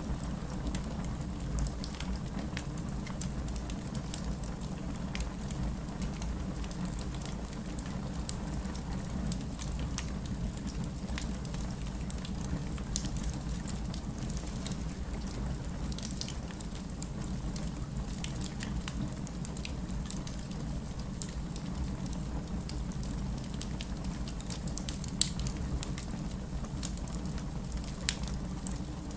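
Wood fire burning, with a steady low rumble and hiss and continual small crackles, a few louder pops standing out now and then.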